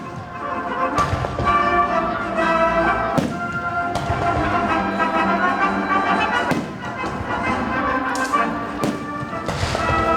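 Fireworks booming every second or two over music with sustained instrumental tones.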